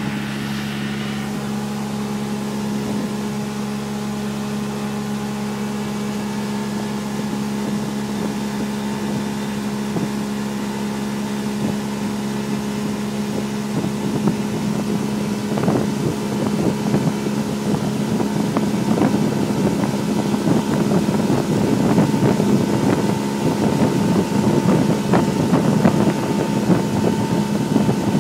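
Motorboat engine running at a steady pitch. From about halfway on, choppy wind and water noise grows over it and the level rises slightly.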